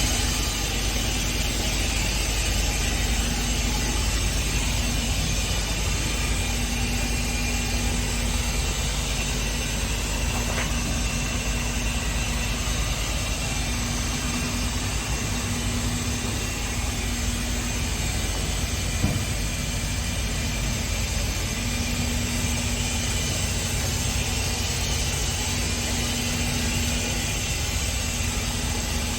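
Scania P410 truck's 13-litre inline-six diesel idling steadily, with a faint click about ten seconds in and another near nineteen seconds.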